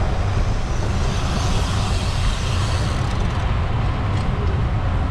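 Steady wind buffeting the microphone in a low rumble, over the rolling noise of a bicycle on the road.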